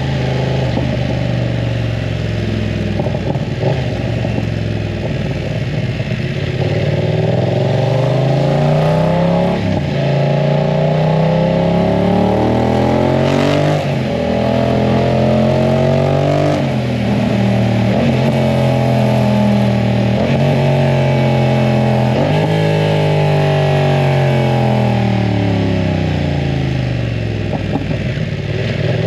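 BMW F900 R parallel-twin engine through a full aftermarket exhaust, ridden and pulling up through the gears: the pitch rises, drops back at shifts about a third of the way in and again near the middle, holds, then falls away as the bike slows and rises again at the end.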